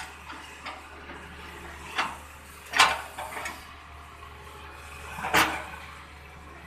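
Four loud, short clunks and thuds from heavy earthmoving machinery at work, the biggest about three seconds in and another near the end, over a low, steady engine drone.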